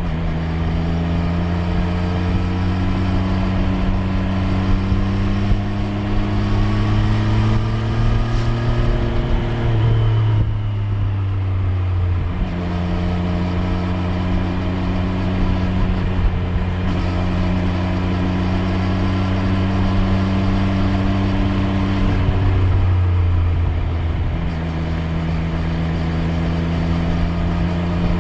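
Triumph Street Triple 765 R's inline three-cylinder engine running under way. Its note climbs slowly over the first ten seconds, then changes pitch about ten seconds in and again around twenty-three seconds in.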